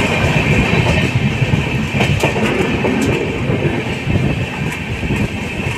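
Patna Jan Shatabdi Express running at speed, heard from inside a coach: a steady, loud rumble of wheels on rail with scattered sharp clicks and knocks.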